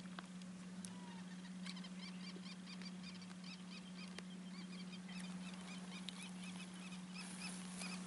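A faint, rapid series of short chirping bird calls, several a second, starting about two seconds in, over a steady low hum.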